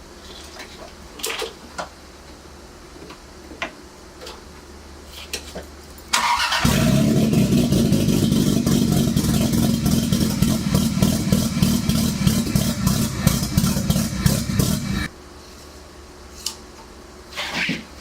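Toyota 1JZ-GTE inline-six in a 1989 Supra MK3 cranking and catching about six seconds in on one of its first start-ups after a 2JZ-GTE harness and new ECU with 550 cc injectors were fitted, then running for about eight seconds before cutting off suddenly.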